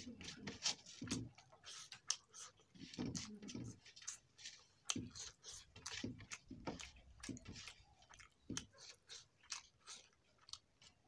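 Close-miked chewing of a mouthful of rice: wet, open-mouthed chewing with lip smacks, an irregular run of sharp clicks several times a second.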